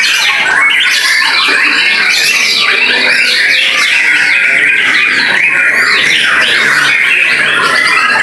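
Young male white-rumped shama singing: an unbroken, loud stream of rapid, varied whistled notes and quick sweeping trills.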